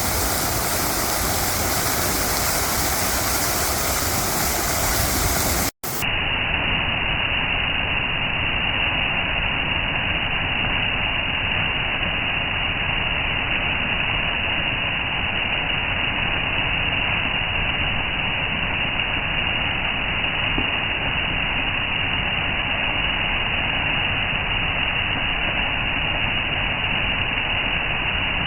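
Park fountain water splashing and rushing steadily. It breaks off for a moment about six seconds in, then carries on sounding duller.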